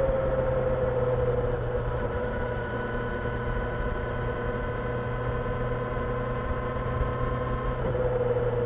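Kawasaki Ninja 1000SX's inline-four engine running under way, its note drifting slowly lower, with a shift in pitch near the end.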